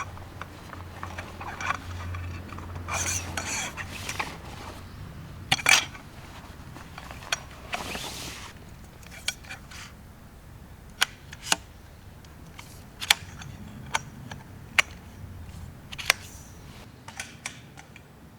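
A scattered series of sharp clicks and light knocks with short bouts of rustling, like small objects being handled.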